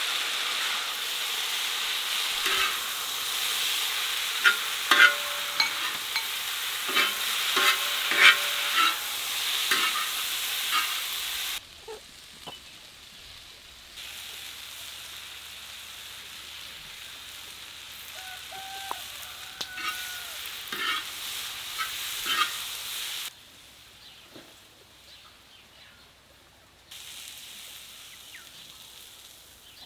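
Food sizzling and frying in a pan while being stirred, with a utensil clicking and scraping against the pan. The sizzle cuts off suddenly a little before halfway, returns quieter with a few more knocks, and drops away again near the end.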